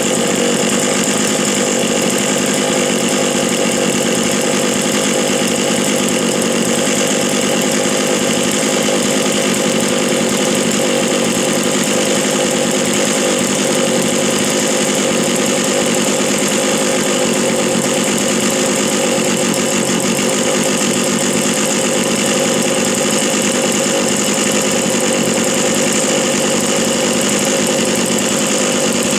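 Stihl MS 660 Magnum chainsaw's two-stroke engine running steadily at a constant speed through its dual-port buckshot muffler.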